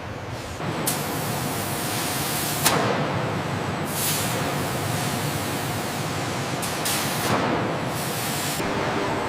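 A steady rushing hiss, like air or spray under pressure, comes in about a second in. It is broken by a few short knocks, the loudest a little under three seconds in.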